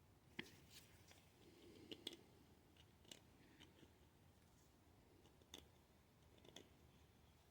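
Near silence broken by about six faint, sharp clicks and short scrapes: a hand tool working at the old paint on a metal pedal handle.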